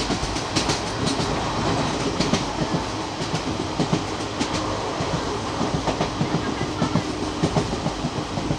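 Train running along the track, its wheels clicking irregularly over the rail joints against a steady rumble.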